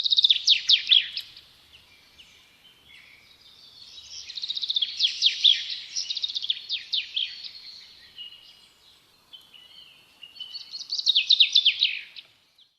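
Birdsong: three bouts of fast, falling chirps, at the start, around the middle and near the end, with quieter twittering between them.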